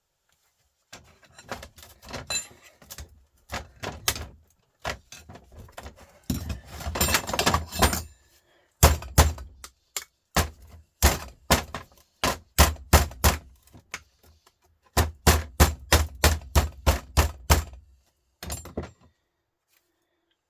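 Repeated metal blows on a Volvo truck starter motor being dismantled: scattered knocks and scraping at first, then runs of strong, evenly spaced strikes, about two a second and then about three a second in the second half.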